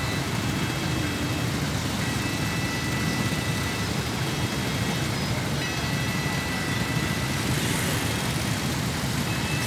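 Freight train of boxcars rolling slowly over a level crossing with a steady rumble, mixed with idling motorbike engines close by. A thin, high, steady tone sounds for a few seconds at a time, with short breaks between.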